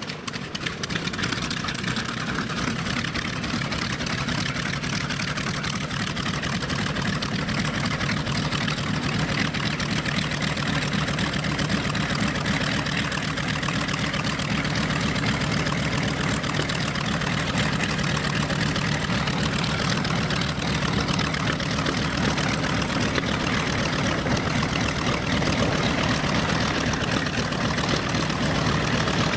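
Radial piston engines of a World War II bomber running steadily at low power, an even, continuous engine drone with a rapid firing pulse.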